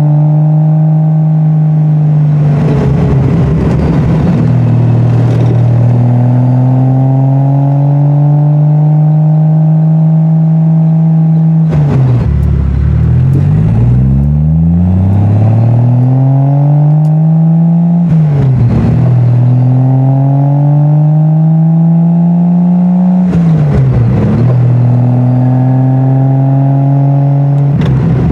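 Triumph TR6 straight-six with a Monza exhaust, driven hard and changing gear. Its pitch climbs under acceleration and falls off sharply at each gear change, about four times. About twelve seconds in, the engine drops to a low pitch and then climbs again.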